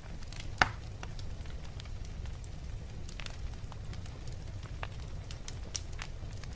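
Wood fire burning in a fireplace: a steady low rumble of flames with scattered sharp crackles and pops, one louder pop about half a second in.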